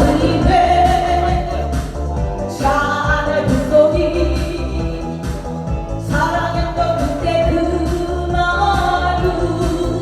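A Korean pop song performed as a solo vocal over a backing track with a steady bass beat; the sung phrases are separated by brief breaks.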